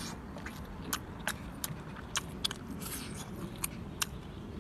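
Close-up eating of roast chicken: chewing with a run of irregular sharp clicks from the mouth and teeth, over a steady low background noise.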